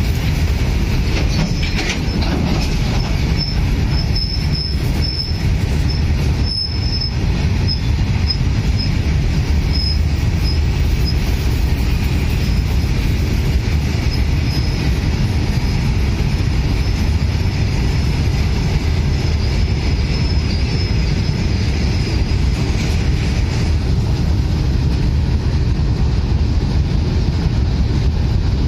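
Coal freight train of Indian Railways BOXN-type open wagons rolling past close by: a steady, heavy rumble of wheels on rail. A thin, high-pitched wheel squeal comes and goes over it, fading out about three-quarters of the way through.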